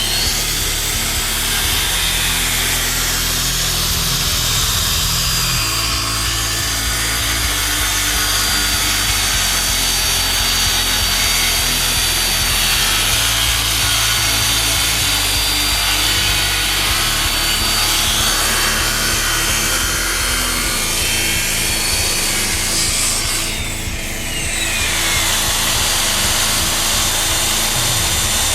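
Electric power tool running at speed and cutting wood, a steady high motor whine over the noise of the cut. About 23 seconds in the motor winds down in a falling whine, then starts up again.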